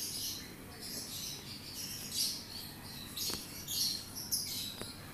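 Small birds chirping in the background, in short bursts of high chirps about once a second.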